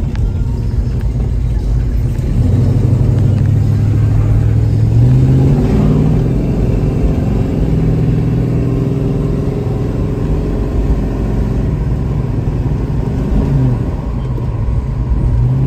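1974 Plymouth Duster's 360 V8 engine pulling away and accelerating, heard from inside the car: the engine note climbs, falls back about five or six seconds in as it shifts up, then holds steady at cruising speed with road rumble underneath.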